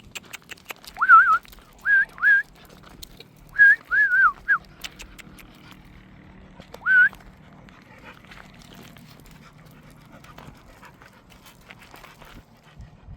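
A dog whining: a run of short, high, wavering whines in the first five seconds, then one more about seven seconds in.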